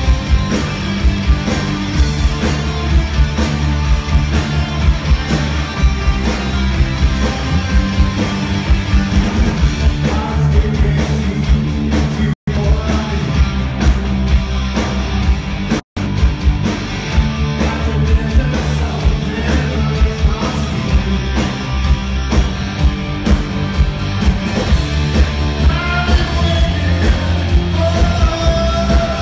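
Rock band playing live: electric guitar, bass and drums, with a singer's voice. The sound cuts out for an instant twice, about twelve and sixteen seconds in.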